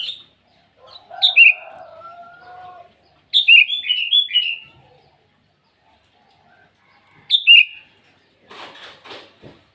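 Sooty-headed bulbul singing short, bright, bubbling phrases. There is a note at the start, a phrase about a second in, a longer run of quick notes from about three to five seconds, and another phrase past seven seconds. Near the end comes a short spell of rustling, fluttering noise.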